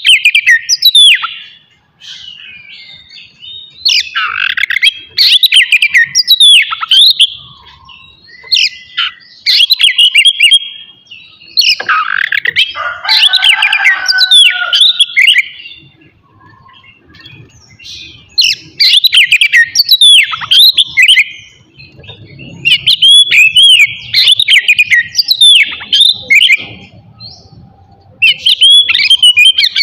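Oriental magpie-robin (kacer) singing loudly, in rapid whistled song phrases of two or three seconds each, separated by short pauses. One phrase near the middle carries lower, harsher notes.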